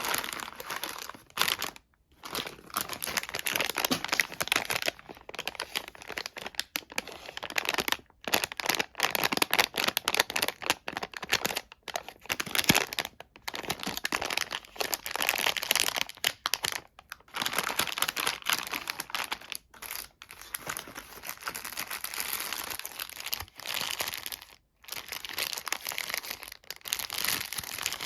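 Close-up crinkling of a sweet's wrapper being handled and crumpled, in dense crackly bursts broken by a few short pauses.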